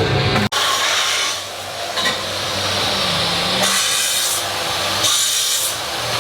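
Steady, rough rasping of a shop tool working on the metal exhaust pipe during the exhaust install, its high hiss swelling and easing a few times.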